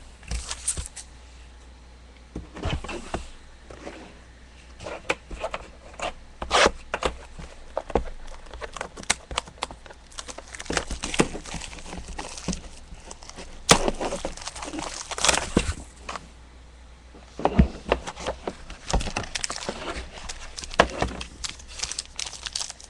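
Trading-card box packaging being opened and handled: plastic wrap crinkling and tearing, with scattered sharp clicks and scrapes of cardboard and cards.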